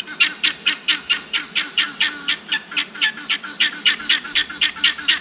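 A bird calling in a fast, even series of short, sharp, harsh notes, about four a second.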